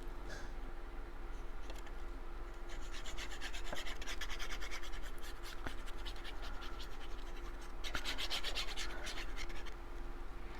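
Cardstock pieces rubbed and handled by hand, a dry scratchy crackle, as glued paper parts are pressed down and smoothed, in two spells, the second near the end.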